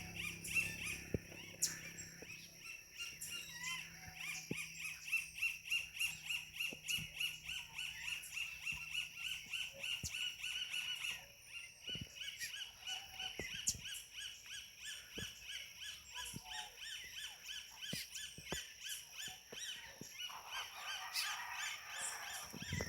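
Birds calling outdoors in long runs of quick, evenly repeated notes, about four or five a second, over a steady high background tone.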